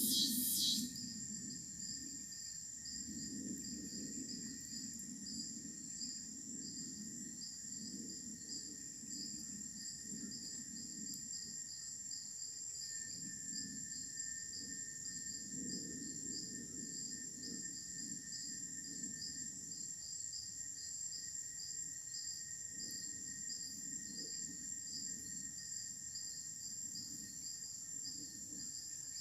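Crickets and other insects calling together: a steady high whine layered with a rhythmic pulsing chirp, over a soft low rumble of outdoor background.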